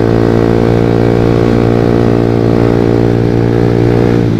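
Honda CB150R's single-cylinder engine running steadily through a Pro Liner TR-1 long-can carbon aftermarket exhaust, its pitch dipping slightly near the end.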